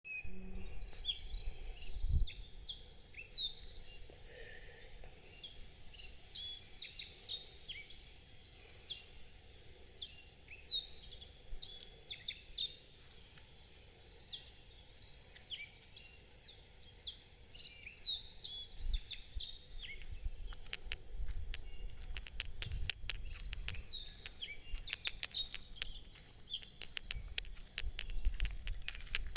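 Several wild birds singing at once: a dense chorus of short, high, mostly down-sweeping chirps and phrases. About two-thirds of the way through, a run of fast clicks joins in.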